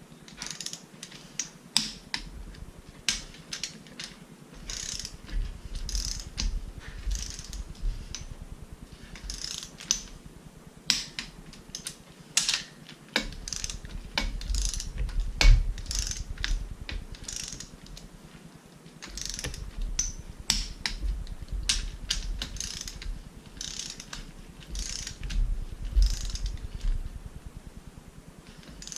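Torque wrench ratchet clicking in quick runs with short pauses as bolts on a Mazda 13B rotary engine are run down, from a wrench its owner says doesn't work all that great.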